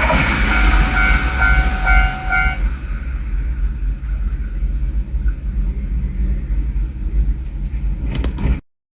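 A limited-express train running past a Japanese level crossing, its rumble fading as it clears. The crossing's electronic alarm rings a few more pulsed tones and stops about two and a half seconds in. A low rumble remains, then a few clicks and the sound cuts off suddenly near the end.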